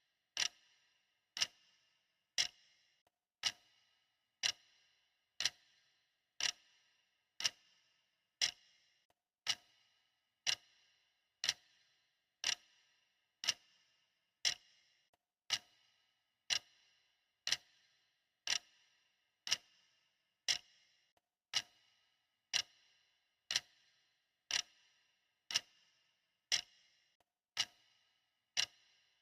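Clock ticking steadily at one tick a second, each tick a sharp click with a short ringing tail.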